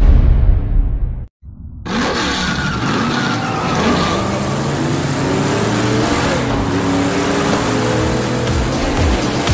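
A loud hit at the start dies away. After a short silence, a racing-car engine sound effect revs up and keeps running, with several pitches gliding up and down.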